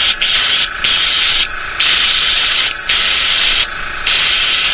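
Small paint spray gun spraying white pearl paint in short hissing bursts, about five in a row, each under a second, with a quieter steady hiss of air between them.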